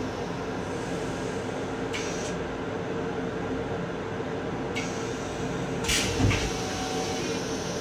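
Steady rumble and hum of an M7 electric railcar in service. Short hisses come about two seconds in and near five seconds, and a thump with a hiss, the loudest moment, a little after six seconds.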